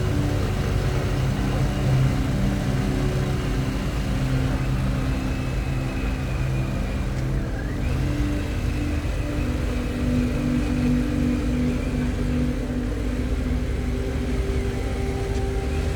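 Harley-Davidson Pan America's Revolution Max 1250 V-twin running on the move at a steady cruise, its engine note shifting slightly in pitch a few times.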